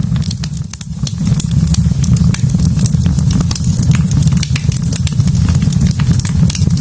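Wood fire burning in a fireplace, crackling with many quick sharp pops over a steady low rumble.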